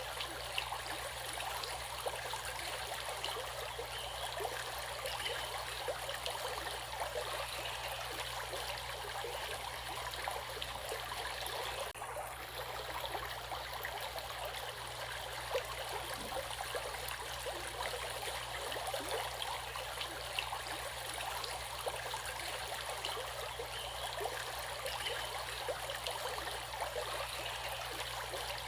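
Stream water flowing steadily, with many small splashes over the rushing. The sound dips briefly about twelve seconds in.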